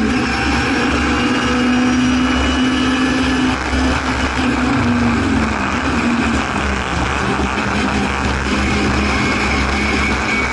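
Singer Chamois race car's rear-mounted Hillman Imp four-cylinder engine running hard at racing speed, heard from inside the cabin over road and wind rush. It holds a steady high note for the first few seconds, then drops in pitch in steps from about four seconds in and runs on at a lower note.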